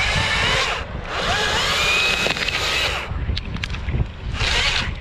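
Battery chainsaw cutting in three short bursts, its motor whine rising as it spins up, over low wind rumble on the microphone.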